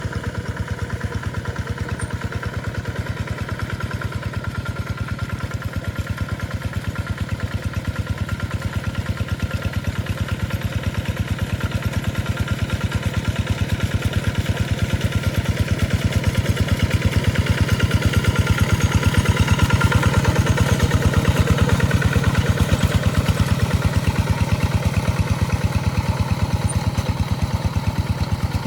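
Tractor engine running steadily with a rapid, even beat, growing louder to a peak about two-thirds of the way through, then easing off.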